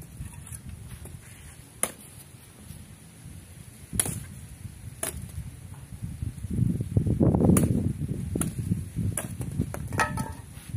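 Sharp wooden knocks and a rough clatter of firewood being handled and stacked, a handful of separate hits with a longer scraping jumble of wood about two-thirds of the way through.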